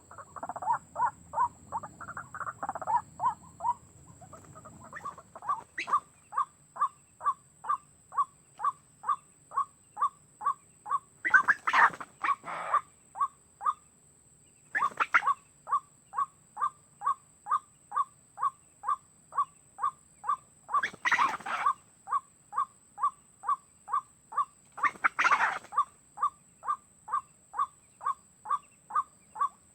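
White-breasted waterhen lure call played through a speaker: a single note repeated about twice a second, with a few louder, harsher bird calls breaking in now and then.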